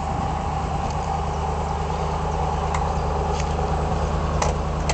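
Classic Range Rover bobtail's V8 engine running steadily at low revs as it rolls slowly up and stops close by, with a few short clicks in the second half.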